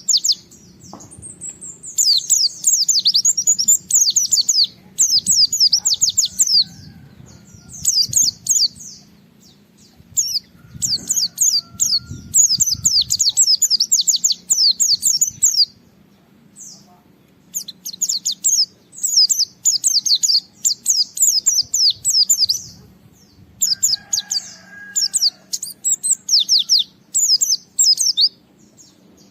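White-eye (pleci) singing vigorously: fast, high-pitched chattering phrases of one to a few seconds each, with short pauses between them.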